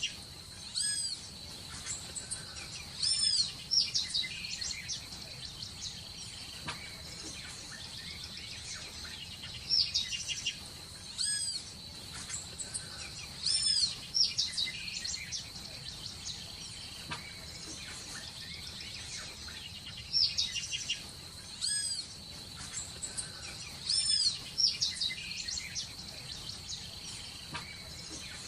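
Birds chirping in short bursts of quick, arched, high calls every few seconds, over a steady high-pitched whine and a faint hiss.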